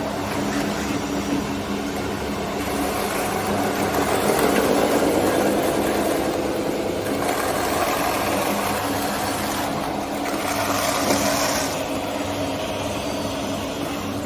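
Scale RC construction machines running, with the steady whine of their small motors. The pitch climbs and the sound swells about four seconds in, and a brighter hiss joins near ten seconds.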